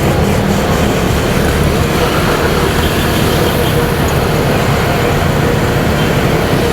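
Motorcycle riding in traffic: a loud, steady mix of engine, wind over the microphone and road noise.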